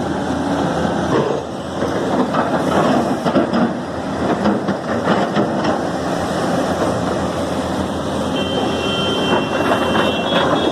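Heavy construction machinery running, a dense mechanical din with scattered clanks and clatter.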